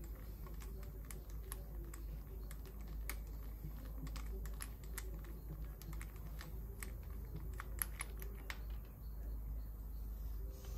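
Irregular light clicks and taps of hand tools and parts being handled, over a steady low hum.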